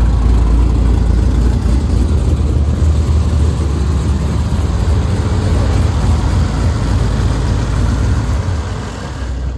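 Car engine running with a steady deep rumble, easing off slightly near the end.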